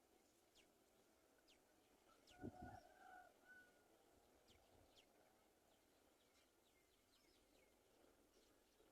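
Near silence with faint, scattered high-pitched bird chirps, and one brief louder sound with a low thump about two and a half seconds in.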